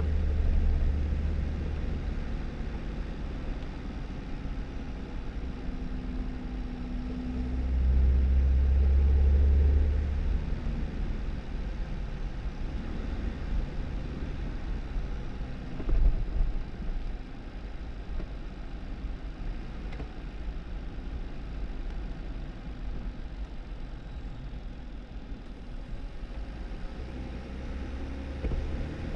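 A Jeep Wrangler driving on a snow-covered dirt road: a steady low engine and drivetrain drone with tyre noise over it. It swells for a couple of seconds about eight seconds in, and there is one thump about halfway through.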